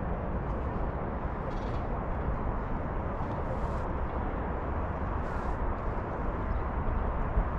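Steady outdoor background noise with a low rumble, broken by a few short, high hissing scrapes.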